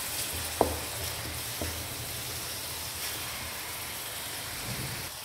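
Tomato-and-spice masala sizzling in oil in a non-stick wok as it is stirred and fried with a wooden spoon, the bhuna stage of cooking the masala. Two short knocks of the spoon on the pan come about half a second and a second and a half in.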